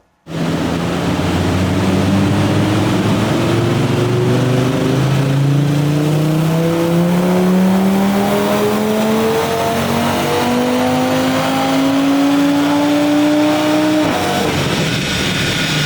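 Audi TT RS 2.5-litre five-cylinder turbo engine with a 4-inch turbo-back exhaust at full throttle in a single long pull. The revs climb steadily for about fourteen seconds, then fall suddenly as the throttle is lifted near the end.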